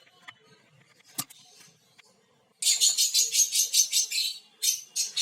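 Lovebirds calling: a loud, rapid, shrill chattering that starts about halfway through, after a single sharp click about a second in.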